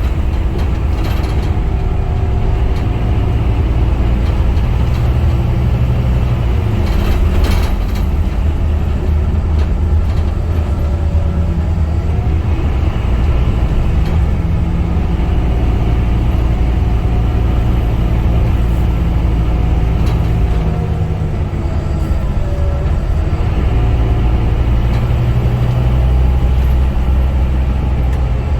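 Scania K250UB bus's five-cylinder diesel engine running as the bus drives, the engine note swelling and easing off several times as it pulls and lets off.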